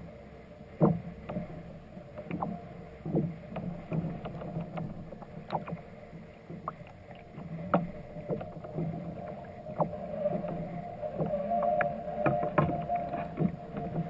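Water sounds on a kayak at sea: irregular knocks and splashes against the hull, over a faint steady hum.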